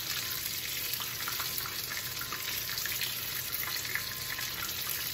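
Breaded chicken strips shallow-frying in olive oil in a skillet: a steady sizzle with small scattered crackles.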